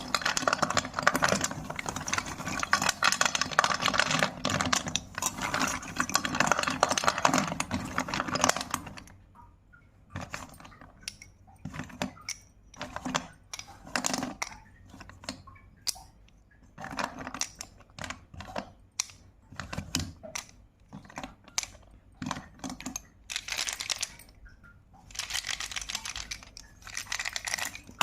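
Slate pencil being bitten and chewed close to the microphone, crisp crackly crunching. A dense run of crunches for about the first nine seconds gives way to scattered single crunches with short pauses, then it turns dense again near the end.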